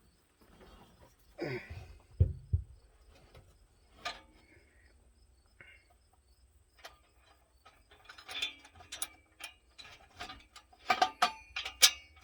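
Scattered metallic clicks and clinks of hand tools and bolts being worked while fitting an exhaust pipe, with two low thumps a little after two seconds and denser clicking in the second half.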